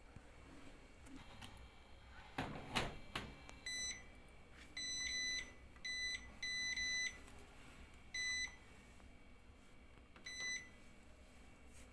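Washing machine control panel beeping as its buttons are pressed: about seven single-pitch electronic beeps at irregular intervals, some short and some held longer, after a few knocks.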